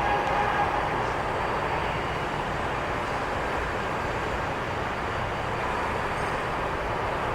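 Jet airliner engines running: a steady rushing roar with a faint whine at the start that fades within the first couple of seconds.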